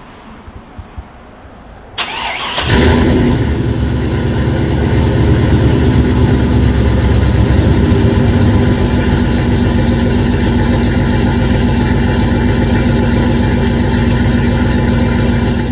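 Truck engine started: a brief burst of cranking about two seconds in, the engine catching moments later and then running loud and steady.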